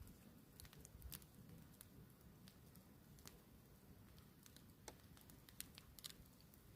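Faint campfire crackling: scattered, irregular sharp pops and ticks.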